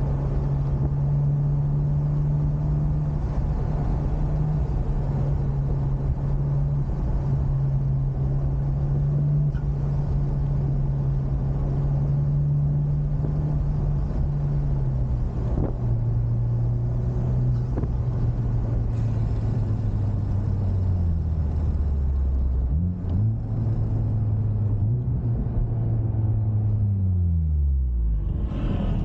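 Honda Civic Type R FK8's turbocharged 2.0-litre four-cylinder heard from inside the car with road noise. The engine holds a steady pitch for the first half, then its pitch falls in steps, with a short blip about three quarters through, dropping low near the end as the car slows.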